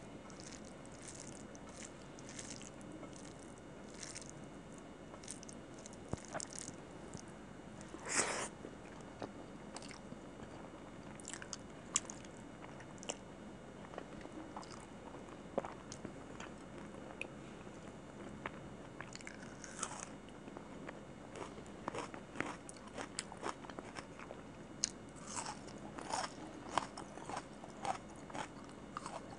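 Close-miked chewing and wet mouth smacks of a person eating chicken curry and rice by hand: irregular clicks and smacks, busier in the last few seconds, with one louder smack about eight seconds in.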